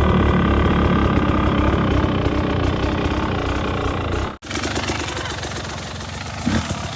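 Dirt bike engine running at a steady pitch, cut off abruptly about four seconds in. A quieter, rougher engine sound follows.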